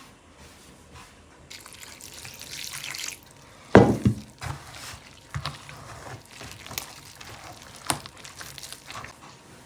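Water running briefly, like a tap or pouring into a basin, followed by a sharp knock and small clinks and drips, as of washing up at a sink.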